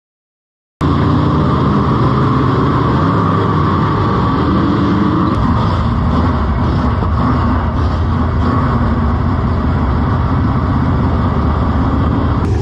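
Dirt-track modified race car engine running hard at speed, a loud steady drone that cuts in suddenly about a second in.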